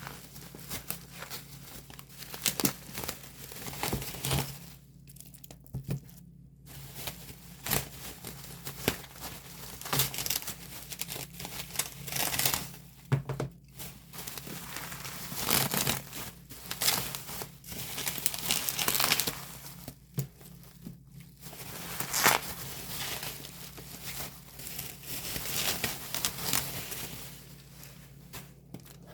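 Plastic shrink-wrap being torn and crinkled off a K-pop album by hand, in irregular bursts of rustling and crackling with a few sharp clicks.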